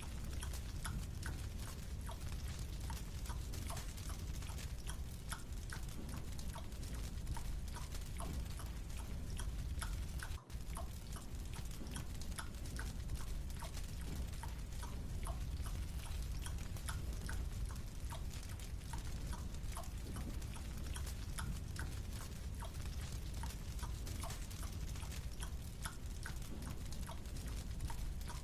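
Small, irregular wet clicks, several a second, over a steady low hum: mouth sounds of slowly chewing a marshmallow.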